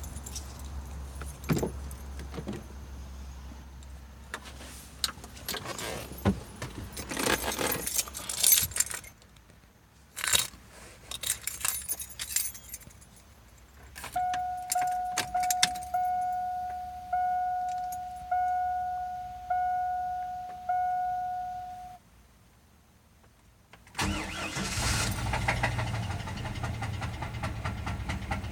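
Keys jangling and clicking, then a vehicle's warning chime ringing in evenly spaced pulses about once a second. Near the end, the 4.3 Vortec V6 of a 1998 GMC Jimmy, an engine with rod knock, starts up and keeps running.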